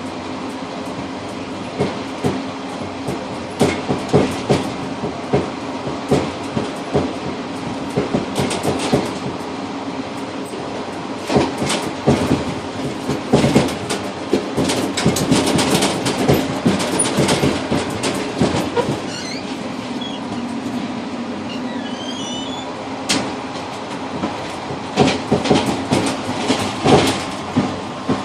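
Passenger train running on the rails, heard from inside the rear car's cab vestibule: a steady rumble and hum broken by clusters of sharp clickety-clack knocks as the wheels pass over rail joints, with faint brief wheel squeals near the middle.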